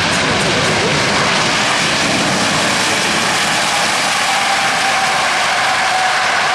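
Jet aircraft engines running loud and steady during a display fly-by. A thin whine comes up over the roar from about four seconds in.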